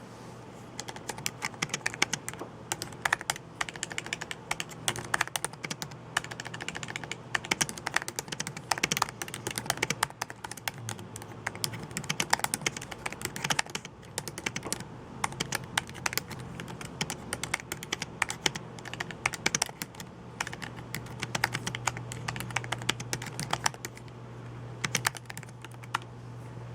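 Typing on a computer keyboard: a rapid, irregular run of key clicks, with a short pause near the end.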